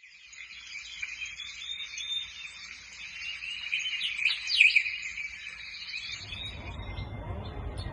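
Several songbirds chirping and singing in a dense chorus of quick chirps and downward-sliding whistles, loudest about four to five seconds in. The chirping fades about six seconds in and a low rumble takes over.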